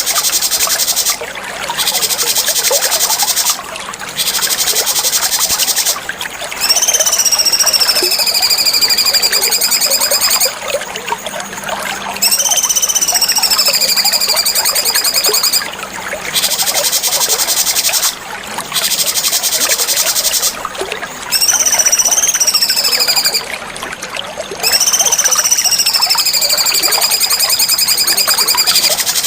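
Cucak cungkok birdsong: whistled phrases that jump up and then slide down in pitch, repeated four times, alternating with stretches of a fast, high, buzzing trill.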